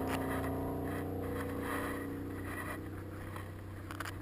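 Motorcycle engine idling steadily with an even low note, easing slightly quieter, with a few light clicks near the end.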